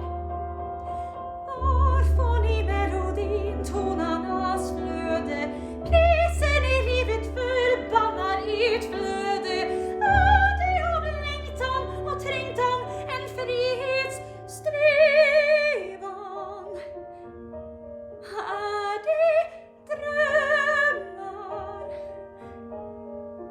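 Classical operatic singing with strong vibrato, moving through sustained notes over a low accompaniment.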